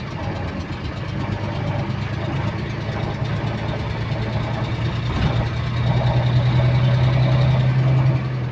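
City bus diesel engine running, a steady low drone with a repetitive clicking that keeps time with engine speed. The drone eases about five seconds in, comes back louder, and drops off near the end.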